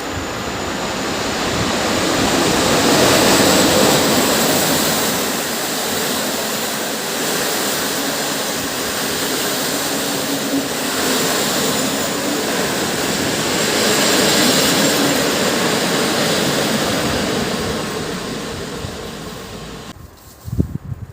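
A PKP EP07 electric locomotive hauling a passenger train through the station: a steady rolling rumble of wheels on rail that swells twice and fades away. Near the end it cuts to quieter outdoor sound.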